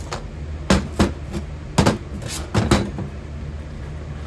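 A quick series of about six sharp knocks over two seconds, some of them in close pairs: hard objects being knocked or set down while casting patterns are handled.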